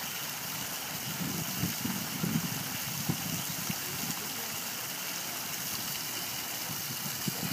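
Outdoor water fountain splashing with a steady rush of falling water, with a few short low rumbles in the first half.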